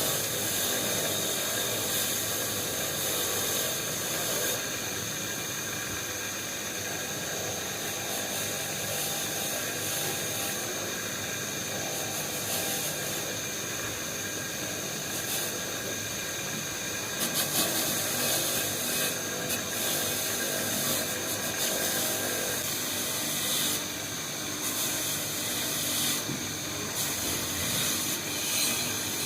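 A power tool running steadily with a hiss and a high steady tone; short clattering noises join in during the second half.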